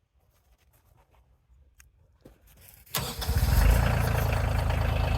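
Faint clicks, then about three seconds in an engine cranks and catches, settling into a steady idle.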